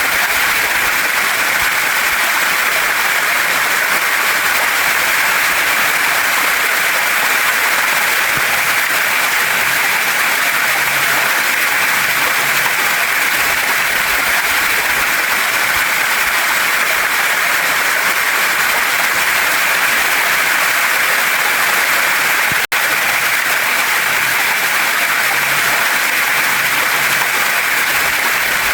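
Waterfall and mountain stream water rushing steadily over rocks, a dense, even hiss. It cuts out for a split second about two-thirds of the way through.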